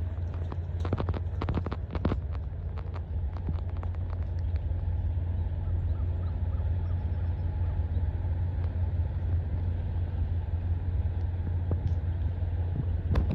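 Semi-truck diesel engine idling steadily with a low rumble. A few clicks and knocks come in the first couple of seconds, and a single sharp knock comes near the end.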